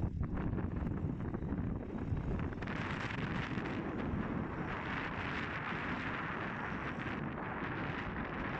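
Wind buffeting the microphone over a steady low rumble, with a brighter hiss joining about three seconds in and easing near the end.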